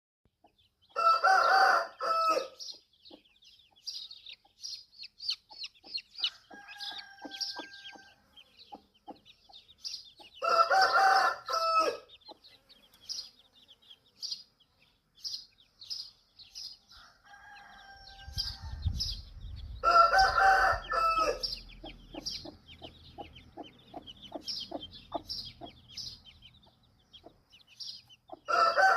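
A rooster crowing three times, about ten seconds apart, with many short high-pitched chirps between the crows. A low rumble sounds under the third crow.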